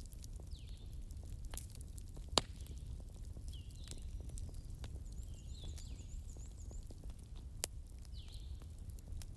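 Wood fire burning in a fireplace, crackling steadily with small snaps and two louder pops, over a low rumble. Short high chirps come every couple of seconds, with a brief rapid trill in the middle.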